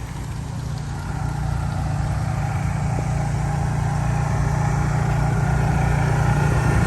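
An engine running steadily with a low hum, growing slowly louder.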